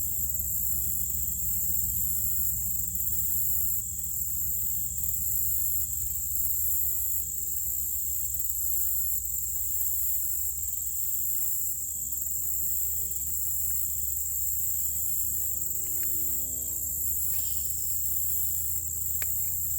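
A chorus of insects trilling steadily, a high continuous note with a faster pulsing shimmer above it, over a steady low rumble. A few faint clicks come near the end.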